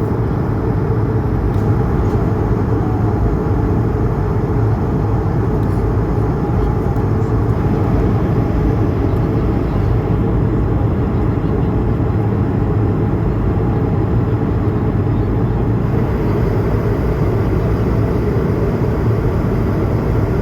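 Steady engine and airflow noise inside the cabin of an Airbus A220-300, heavy and low, with its Pratt & Whitney PW1500G geared turbofans running.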